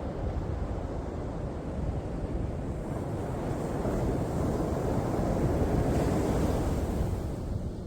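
Sea waves washing ashore: the surf swells to a peak about two thirds of the way in and then eases off. Underneath is a steady low rumble of wind on the microphone.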